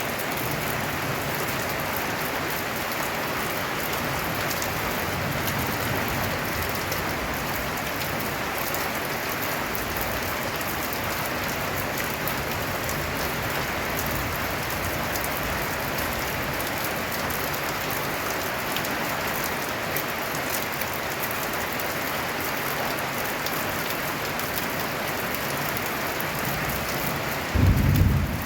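Heavy rain falling steadily on a tin roof. A loud low rumble of thunder sets in near the end.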